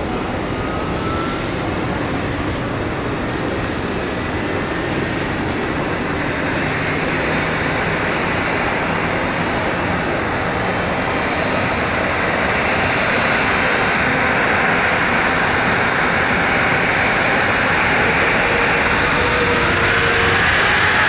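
Jet airliner engines running, a dense steady noise with a thin high whine over it, growing gradually louder toward the end.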